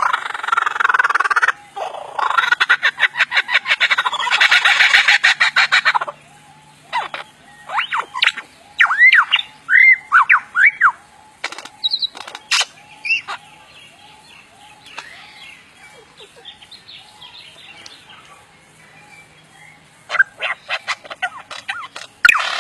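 Birds calling: about six seconds of dense, harsh, rapid chattering, then a run of separate arching whistled chirps. Fainter scattered calls follow, and a few more chirps come near the end.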